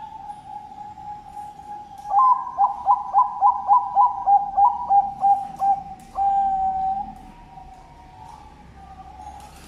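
Zebra dove (perkutut bangkok) singing: a soft held coo, then a run of about a dozen quick notes at about four a second, ending in one long held note.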